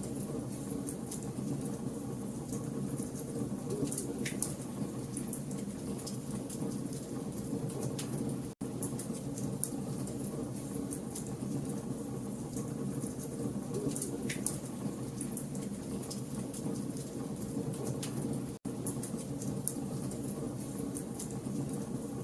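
Burning logs crackling in a campfire: a steady low rush of flame with many small sharp pops, and two louder pops about four and fourteen seconds in. The sound cuts out for an instant twice, about eight and a half and eighteen and a half seconds in.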